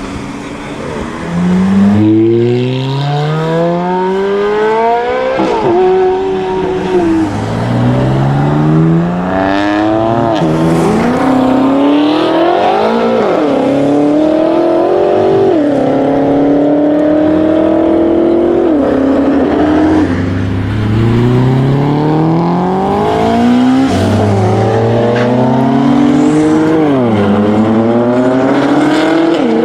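Sports car engines accelerating hard through the gears, loud throughout. Each pull climbs steadily in pitch, then drops sharply at an upshift, and this happens again and again as one car after another pulls away.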